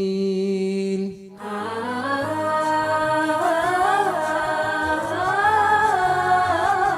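A cappella nasheed singing with no instruments: one voice holds a long note that breaks off about a second in, then several voices come in humming a wordless harmony that rises and falls.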